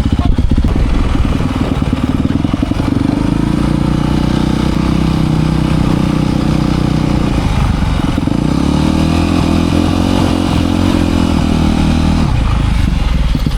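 Dirt bike engine running loudly, its revs dropping and climbing again about eight seconds in.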